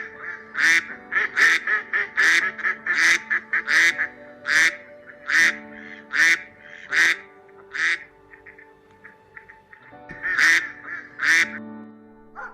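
Domestic duck quacking, a string of short, harsh quacks about one a second, then a pause and two more quacks near the end. Steady background music plays underneath.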